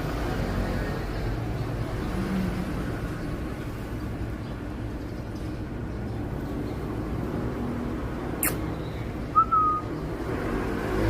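Steady low background rumble. About eight and a half seconds in there is a sharp click, and a moment later a single short, high chirp from a baby cockatiel.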